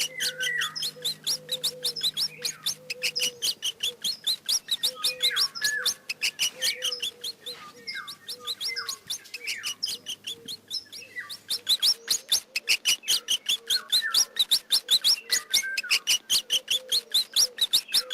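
Mice squeaking: a fast run of sharp, high chirps and squeaks, several a second, with no let-up.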